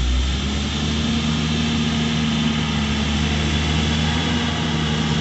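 A tractor's engine running steadily, a low even hum that holds at the same pitch and loudness.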